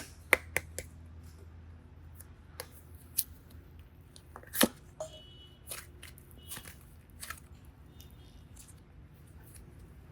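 Scattered sharp clicks and snips from handling clay-craft tools and materials, about a dozen at irregular spacing, the loudest about four and a half seconds in.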